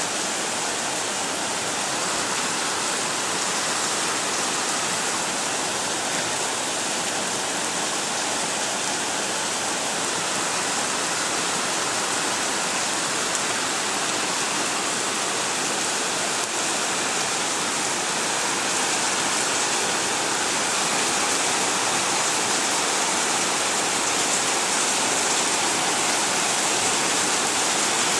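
Heavy rain falling steadily on the street and parked cars, a dense, even hiss that grows slightly louder toward the end.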